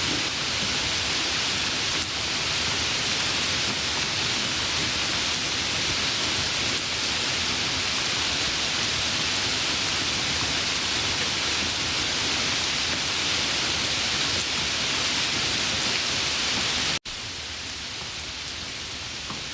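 Steady heavy rain, an even dense hiss. About 17 seconds in it cuts out for an instant and goes on a little quieter.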